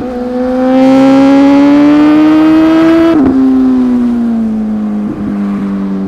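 Inline-four sport bike engine pulling hard, its pitch rising for about three seconds, then a quick upshift with a brief break in the sound, after which the revs sag slowly as the throttle eases.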